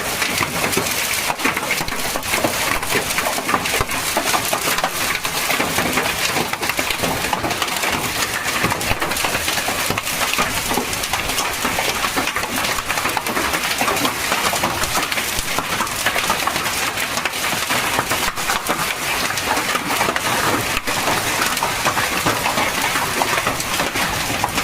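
Hailstorm: hailstones and heavy rain pelting down, a steady dense hiss full of many small hard impacts.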